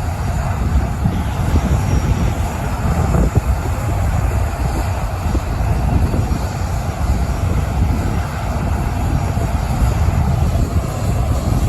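Jet airliner engines running at the end of the runway, a steady loud rumble with a hiss over it, before the takeoff blast.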